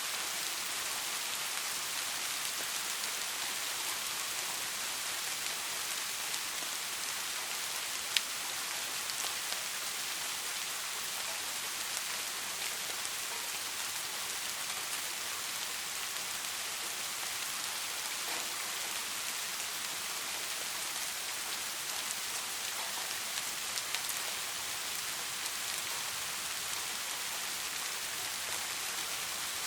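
Steady rain falling, an even hiss with scattered drop ticks and one sharper tick about eight seconds in.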